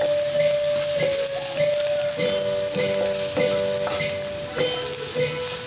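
Chopped onion, green chillies and spices sizzling in hot oil in a pan while a spatula stirs and scrapes them, over background music of long held notes.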